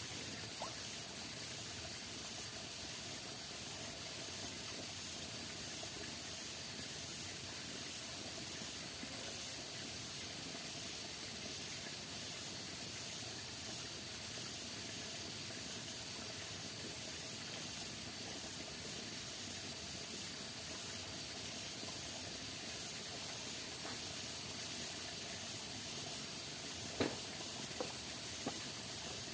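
Steady rain falling in the forest, an even hiss with a faint regular pulsing high in the range. A few light knocks near the end.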